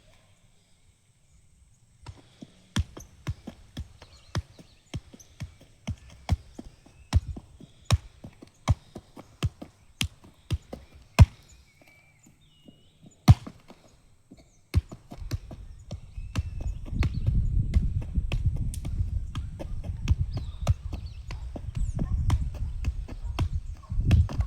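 A football struck again and again in ball juggling, sharp thuds about one to two a second with a short break in the middle. About two-thirds of the way through, a low rumbling noise comes in under the touches.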